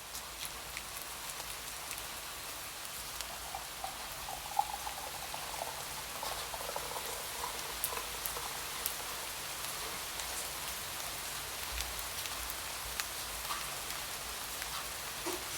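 Steady rain falling, with the sharp ticks of single drops striking a surface scattered through it.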